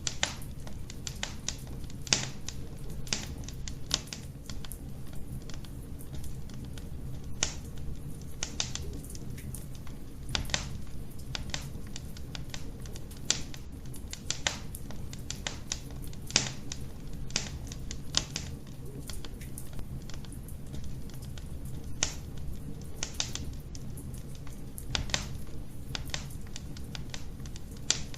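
Wood fire crackling in a fireplace: irregular sharp pops and snaps, one or two loud ones a second with fainter ticks between, over a steady low rumble.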